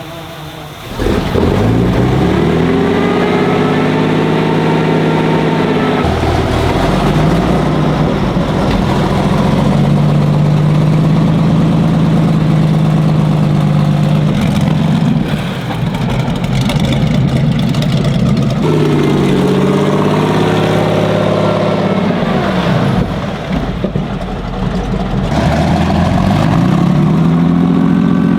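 Cromwell tank's 27-litre Rolls-Royce Meteor V12 petrol engine running loud under way, its note rising and falling again and again as it revs up and eases off.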